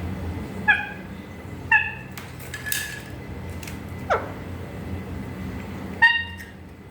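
Pet parrot giving short, sharp calls, four in all, with one quick downward-falling whistle between them.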